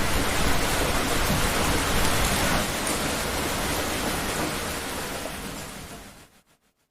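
Heavy rain pouring steadily, with a low rumble underneath, fading out to silence about six and a half seconds in.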